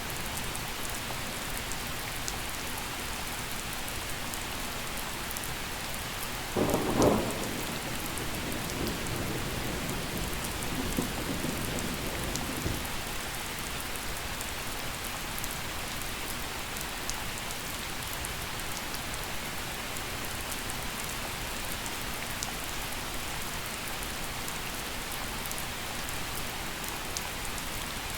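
Steady gentle rain falling, with a short rumble of thunder about seven seconds in and fainter rumbles over the next few seconds.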